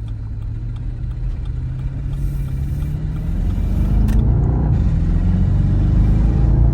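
Car engine with a muffler-deleted exhaust accelerating: a deep rumble whose pitch climbs steadily and grows louder, with a short click about four seconds in.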